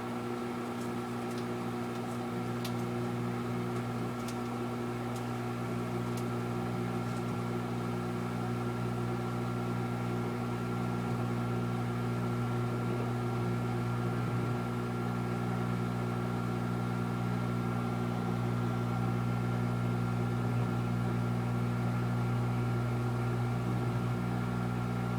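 Microwave oven running with a bar of Ivory soap heating inside: a steady electrical hum that grows slightly louder, with a few faint ticks in the first several seconds.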